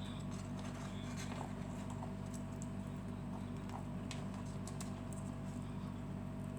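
Scattered light clicks and taps from lovebirds moving about, over a steady electrical hum with a faint constant tone.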